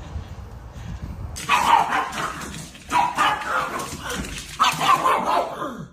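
A dog barking in three quick runs, starting about a second and a half in.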